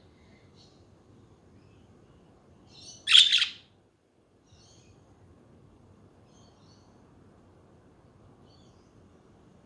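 Pet budgerigars calling: one loud, short call about three seconds in, then a few faint, scattered chirps.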